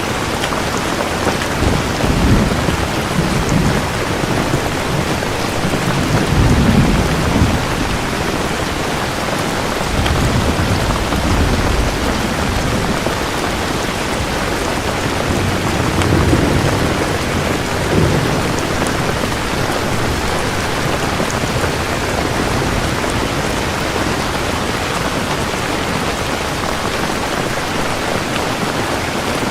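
Steady heavy rain with rolling thunder: several low rumbles swell and fade within the first two-thirds, then the rain goes on alone.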